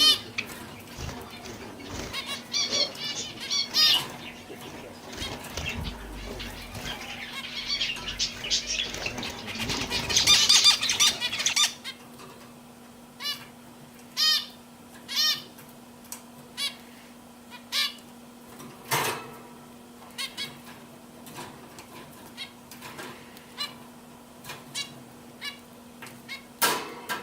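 Canaries chirping: a busy run of many chirps for the first twelve seconds or so, then single short chirps about once a second, with a couple of soft thumps and a steady low hum under it.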